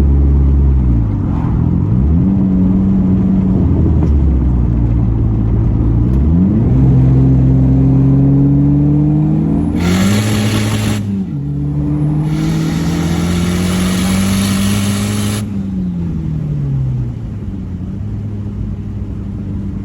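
Big-turbo Dodge SRT-4's 2.4-litre four-cylinder accelerating hard through the gears: the engine note climbs in each gear and drops at shifts about a second in, around six, eleven and fifteen seconds. At high revs, about ten seconds in and again from twelve to fifteen seconds, a loud turbo hiss rides over the engine and cuts off at the shift.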